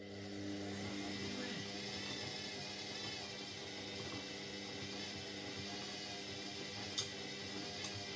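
Indesit 71252 washing machine coming on with a steady electric hum and a hiss of running water, with a couple of sharp clicks near the end.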